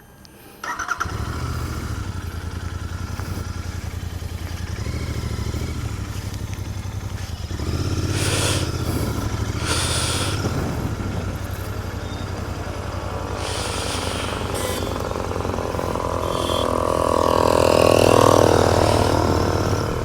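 Royal Enfield Continental GT 650's parallel-twin engine through its stock exhaust, starting up under a second in and then running with a steady low rumble. It grows louder around eight to ten seconds in and again near the end.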